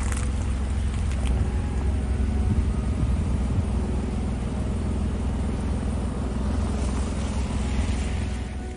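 Car driving on snowy streets: a steady low rumble of engine and tyres with road noise.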